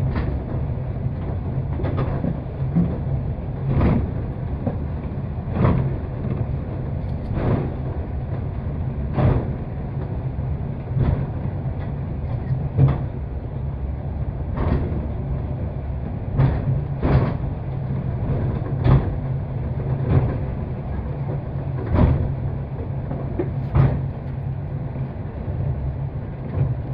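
Takao-san cable car (funicular) running uphill, heard from inside the car: a steady low rumble with a sharp clack about every two seconds as the wheels run along the track.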